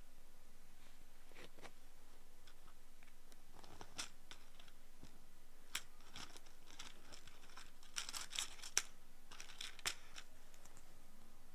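Close-miked ear pick scraping inside an ear canal, working at earwax: scattered crisp scratches and crackles, with a quick run of them about eight seconds in.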